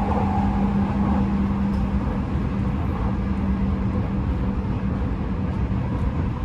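Interior running sound of an Odakyu 5000 series electric train, heard from a motor car: a steady hum from the Mitsubishi full-SiC VVVF inverter-driven traction motors over continuous wheel-on-rail rumble, at an even speed.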